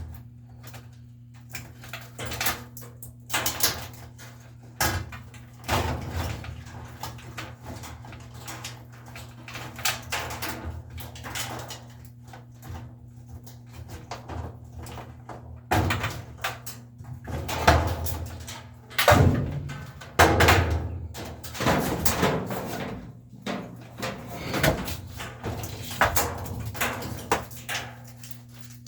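Irregular knocks, clunks and rattles of hard parts being handled and moved, heaviest in the second half, over a steady low electrical hum.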